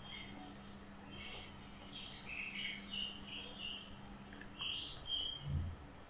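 Birds chirping in short, scattered calls over a faint steady low hum, with a soft low thump near the end.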